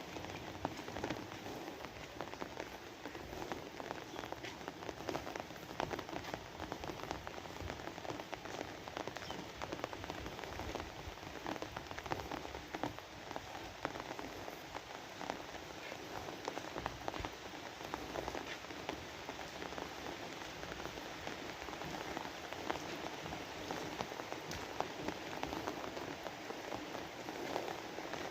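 Steady rain falling, with many small drop impacts pattering on a surface.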